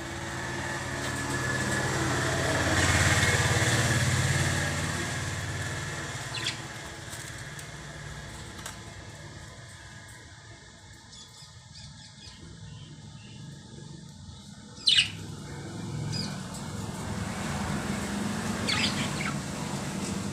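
Lovebirds giving a few short, sharp chirps: one about six seconds in, the loudest about fifteen seconds in, and a quick pair near the end. They sound over a low steady hum. In the first few seconds a rushing noise swells and fades.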